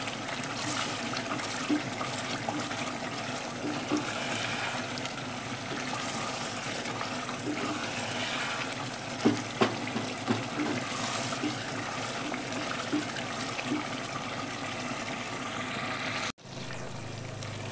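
Tomato chutney sizzling and bubbling as it fries down in oil in an open pressure cooker, its tomato water cooking off, stirred with a wooden spatula that knocks against the pot a few times. The sound cuts out for an instant near the end.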